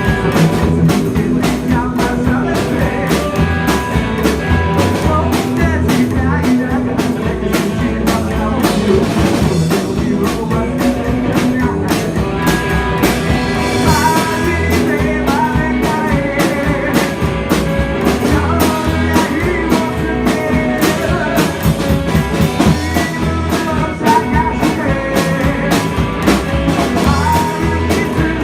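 Rock song with electric guitar, drums and singing.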